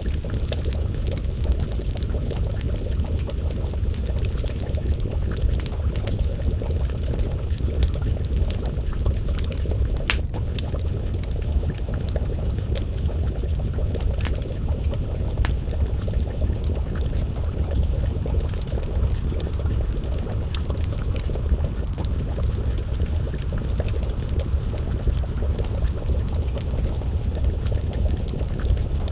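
Wood fire crackling with scattered sharp pops, over a steady low bubbling of stew simmering in a pot over the flames.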